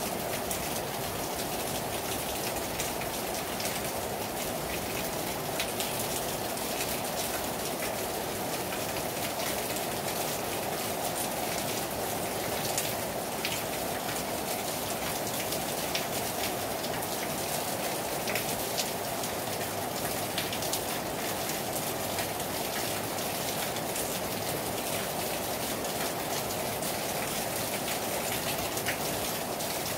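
Heavy rain falling steadily on a terrace, a dense even hiss with the ticks of single drops striking the surface.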